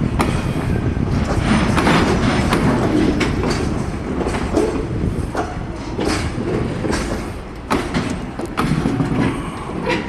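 Container freight wagons rolling slowly behind a shunting locomotive, wheels clicking and knocking irregularly over rail joints and points above a steady low rumble.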